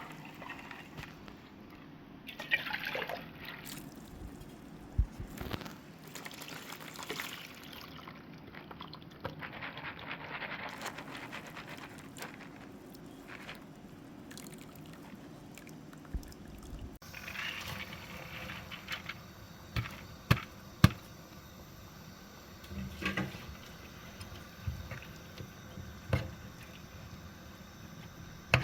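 Water being poured and trickling in short spells, with a few sharp knocks between them.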